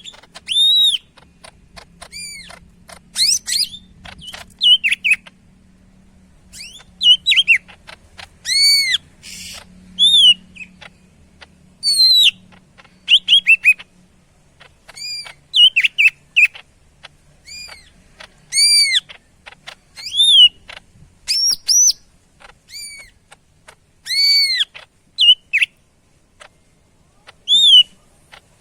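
Cucak ijo (green leafbird) singing loudly: clear arched whistles and quick slurred notes in short phrases every second or two, repeated through the whole stretch.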